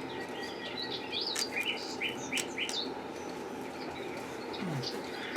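Small birds chirping in short, quick rising and falling notes, with a few light clicks among them.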